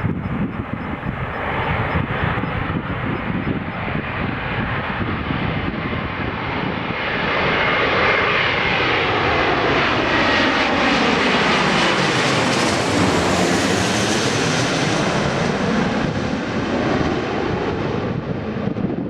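Cathay Pacific Boeing 777-300 twin-jet passing low on its landing approach: the rush of its turbofan engines swells to its loudest and brightest about halfway through, with a sweeping, phasing tone running through it, then eases off as it goes past.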